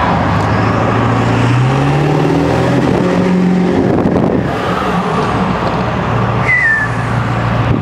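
7.3 L Powerstroke V8 turbodiesel pulling under acceleration, heard from inside the cab with the windows down. The engine note rises for a few seconds, drops sharply about four seconds in as the transmission shifts, then runs on steadily.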